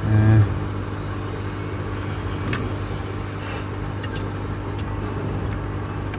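Steady low hum of a hot-air rework blower, with a short louder buzz right at the start and a few light clicks of tools on the phone board.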